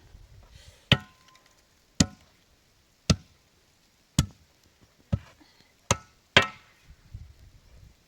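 Heavy blows on wood: seven sharp strikes about a second apart, the last two closer together.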